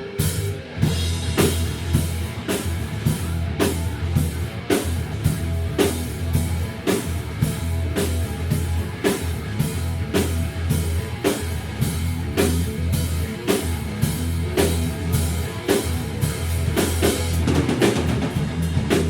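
Rock band playing live without words: a drum kit keeps a steady beat of about two hits a second under bass and electric guitar.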